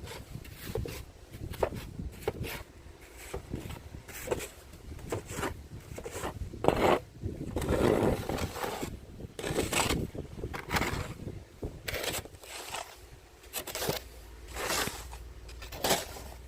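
Snow shovel scraping and pushing snow in repeated strokes, roughly one a second at an uneven pace.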